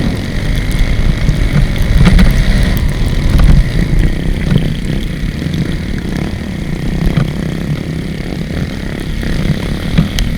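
Motorcycle running steadily under way, with heavy low-pitched engine and road noise.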